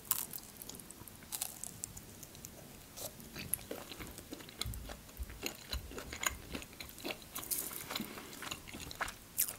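A bite taken from a churchkhela, the grape-juice-coated nut sweet, then chewing it: soft mouth sounds with many small scattered clicks and crunches.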